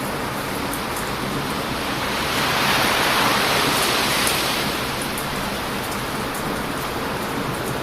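Heavy surf washing onto a beach, one wave breaking and swelling louder between about two and four and a half seconds in, with faint sharp crackles from a wood fire.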